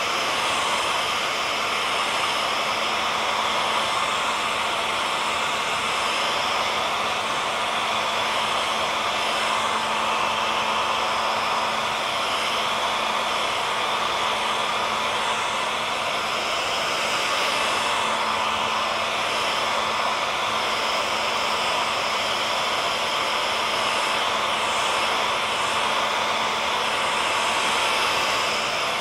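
Hair dryer running steadily, a constant rushing hiss with a faint steady hum under it, used as white noise for putting a baby to sleep.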